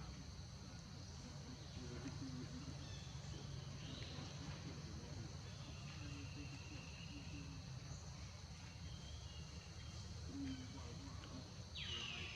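Insects droning steadily in two high unbroken tones over a low rumble, with a few faint short chirps and a louder falling squeak near the end.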